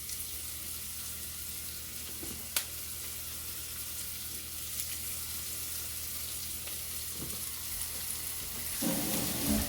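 Boneless chicken breasts frying in a pan, a steady sizzle, with one sharp click about two and a half seconds in.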